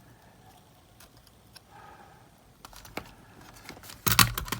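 Small metallic clicks and taps of handling tools and parts at a workbench, with a louder burst of clattering about four seconds in.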